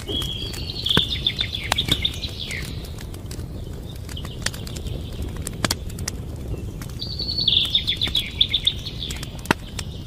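A songbird singing two phrases of rapid repeated high notes, one at the start and another about seven seconds in. Behind it are a steady low rumble and scattered sharp clicks.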